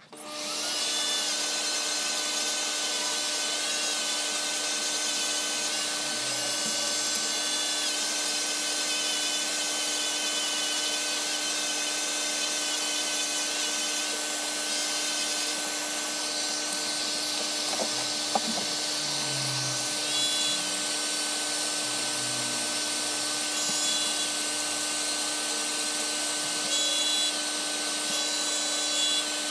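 A small electric motor switched on and running steadily at one speed, with an even hum and hiss and a few faint squeaks and low bumps along the way.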